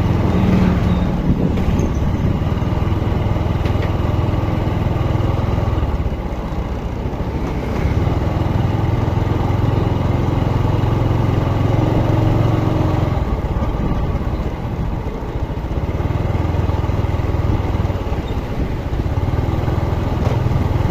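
Motorcycle engine running steadily while riding, a low hum that eases off slightly a couple of times.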